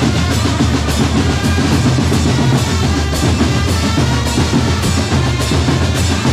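Loud drum ensemble playing a steady beat, with bass drums and snare drums.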